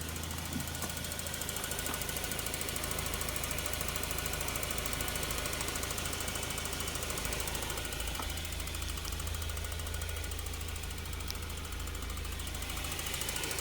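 Toyota TownAce truck's 7K four-cylinder petrol engine running steadily at idle.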